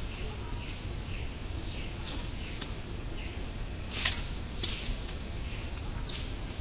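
Cricket trilling steadily on one high note, with faint short chirps and a few sharp clicks, the loudest about four seconds in.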